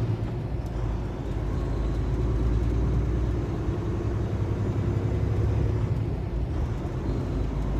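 Steady low drone of a 2015 Kenworth T680 semi truck's diesel engine and road noise, heard from inside the cab.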